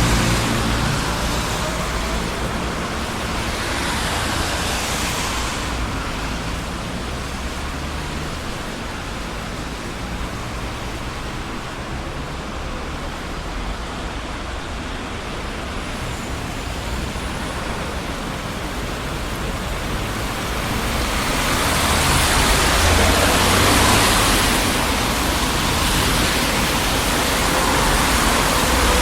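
Traffic on a busy city street: a steady wash of tyre and engine noise, swelling as vehicles pass near the start and again in the last third, and easing off in between.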